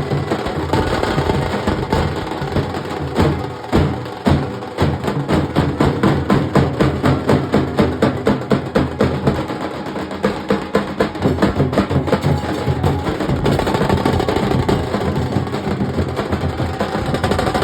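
Nasik dhol drum ensemble playing a fast, driving rhythm of dense, rapid drum strokes, with strong regular accented beats through the middle.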